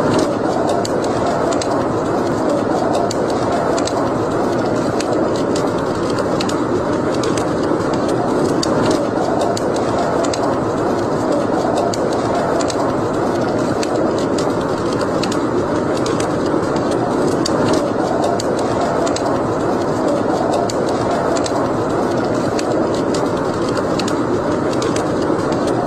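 Wood fire burning in a fireplace: a steady rushing roar with small crackles and pops scattered throughout.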